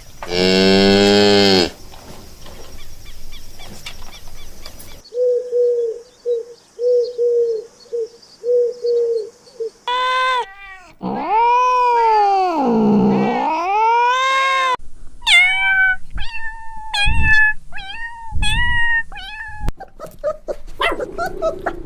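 Domestic cats meowing and yowling: a loud meow, a row of short mews, a long drawn-out yowl that dips in pitch and rises again, then a string of meows.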